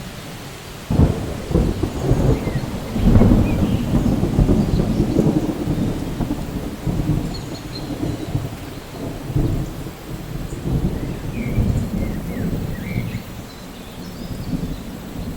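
Thunder over steady rain: a sudden crack about a second in, then long low rolling rumbles that slowly fade.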